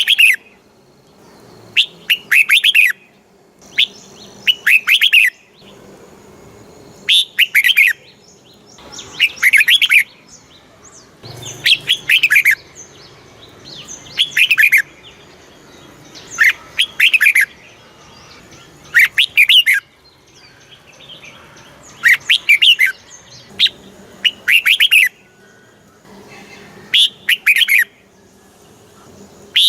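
Red-whiskered bulbul singing: short, quick warbling phrases repeated every two to three seconds.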